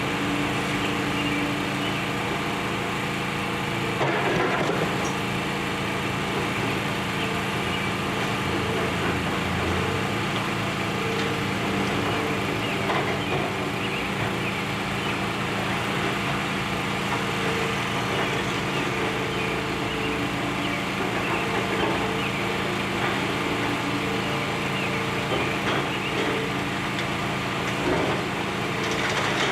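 Excavator's diesel engine running steadily as it demolishes a building, with a few knocks and crunches of debris, the clearest about four seconds in and again near the end.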